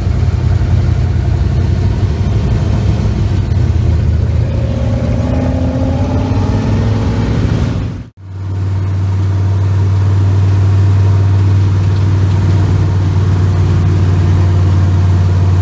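Twin-turbo big-block V8 running in two stretches split by a cut about eight seconds in. First comes a rougher, uneven rumble, then a smooth, steady low drone.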